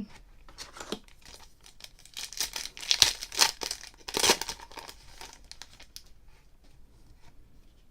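A sports card pack wrapper being torn open and crinkled by hand: a run of irregular crackles, loudest in the middle.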